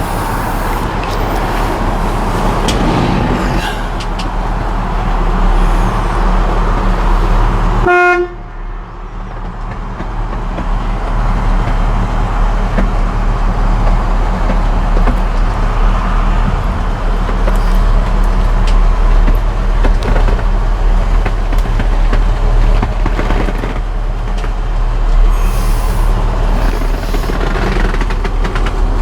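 Pickup truck's 350 V8 running under way with a steady drone. About eight seconds in there is one short horn toot, and right after it the noise drops off sharply and then builds back up over the next few seconds.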